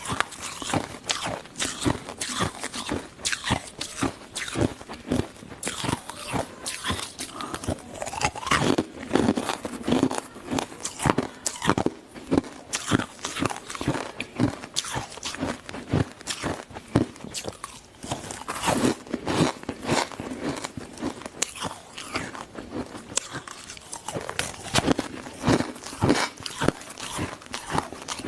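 Ice being bitten and chewed close to the microphone: a continuous run of rapid, irregular crunches and cracks.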